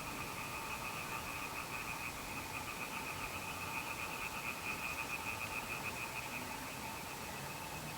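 Frogs calling in a steady night chorus of fast, trilling pulses at two pitches, a higher one and a lower one.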